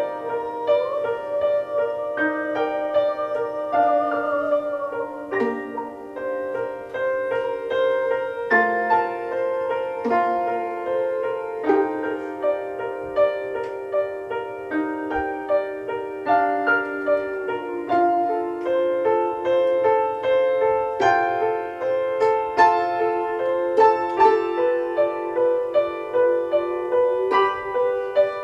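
A live band playing an instrumental passage led by keyboard: quick repeated notes over held chords, with a wavering held tone in the first few seconds.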